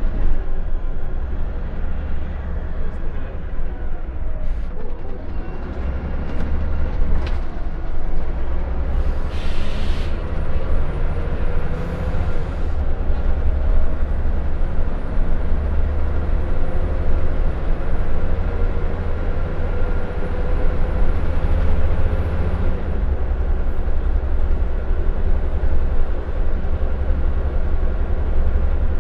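Scania L94UB Wright Solar single-deck bus heard from inside while under way: a steady low engine and road rumble, with a faint whine that rises slowly and then holds.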